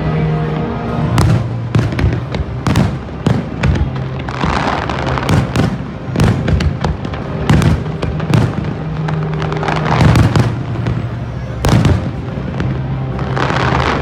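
Fireworks display: a fast, irregular string of bangs and booms, with crackling bursts three times, over loud music with sustained bass notes.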